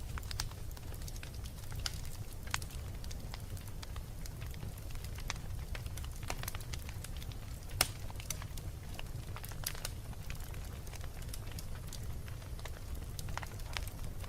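Wood fire crackling in a fireplace: irregular sharp pops and snaps over a steady low rumble, with one loud pop a little past halfway.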